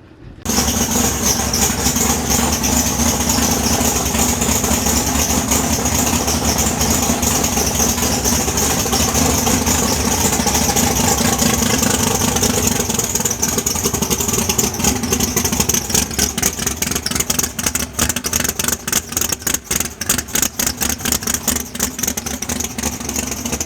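Drag-style race car's V8 engine running loud at a rough, lumpy idle. It becomes choppier and more uneven in the second half.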